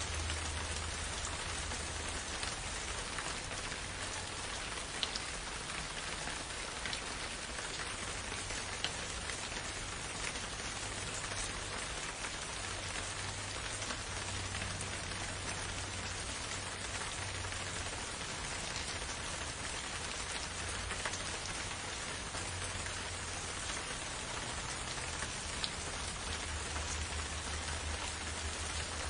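Steady rain falling, an even hiss with scattered louder drops ticking close by, over a low rumble that swells and fades.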